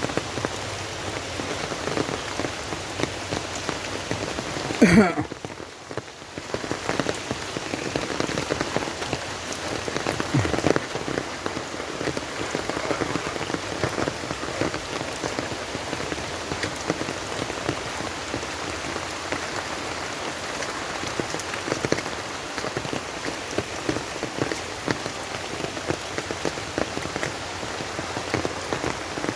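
Steady rain falling on surfaces, a dense patter of drops. About five seconds in there is a brief louder sound, followed by a short dip in the rain.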